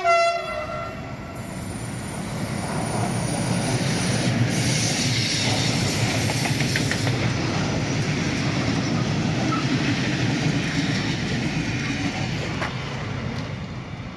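A locomotive horn blast that cuts off within the first second, then a freight train rolling past. The wheels make a steady rumble on the rails with clickety-clack from the wagons, building over the first few seconds and fading near the end.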